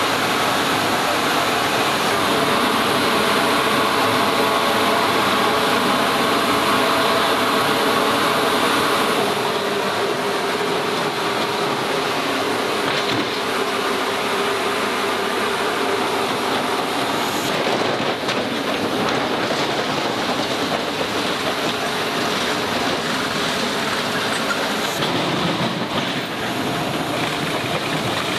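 Steady jet engine and airflow noise of a C-17 Globemaster III heard inside the cockpit, with a shift in tone about nine seconds in and again near the end.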